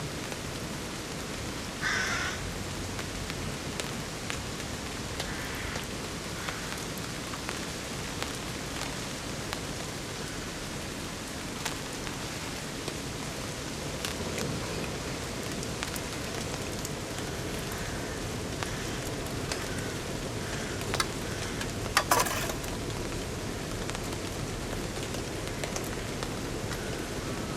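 Steady rain falling, with scattered drops ticking. One sharp knock near the end is the loudest sound.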